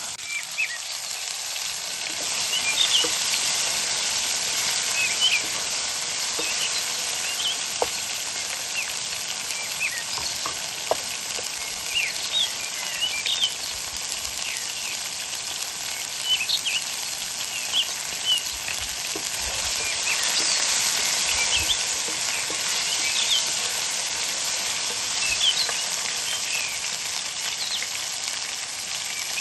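Food sizzling steadily as it fries in a pan, with short bird chirps scattered over it.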